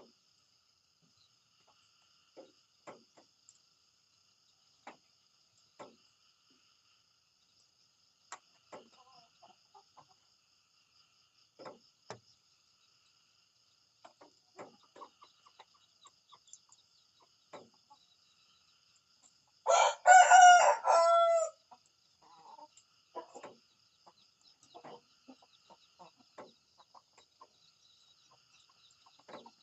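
A rooster crows once, loudly, for just under two seconds about two-thirds of the way through. Short faint clucks are scattered around it, over a faint steady high trill.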